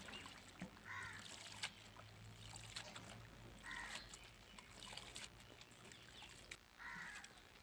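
A bird calls three times, about three seconds apart, each call short, over faint scattered clicks and rustling.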